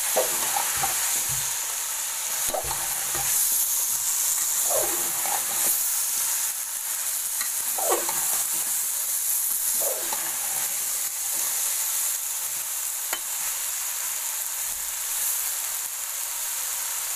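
Sliced capsicum, green chillies and potato pieces sizzling in hot oil in a metal pot, stirred with a perforated metal spoon. The frying hiss is steady, broken every few seconds by short scraping strokes of the spoon against the pot.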